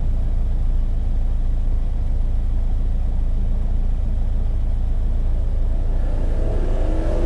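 Subaru-built 2.0-litre flat-four engine of a Scion FR-S/Subaru BRZ idling steadily with a low, even rumble, its exhaust recently modified to sound louder than stock.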